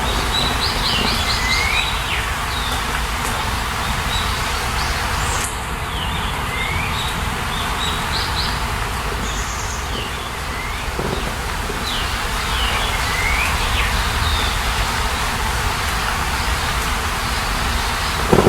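A songbird repeating the same short phrase about every six seconds, a few quick high notes followed by a lower swooping note, over a steady rushing background noise.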